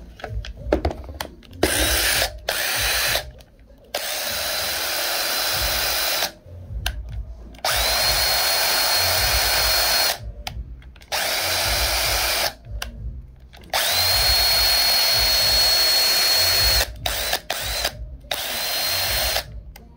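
A Porter-Cable PCC641 20V 1/4" cordless impact driver is triggered in a series of runs lasting from under a second to about three seconds. Each time its motor whine climbs quickly to a steady high pitch, with no hammering in the sound.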